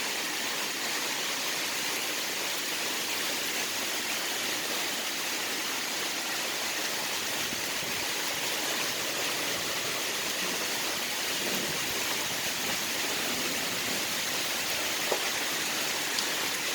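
Heavy rain pouring down in a steady hiss, with a couple of faint ticks near the end.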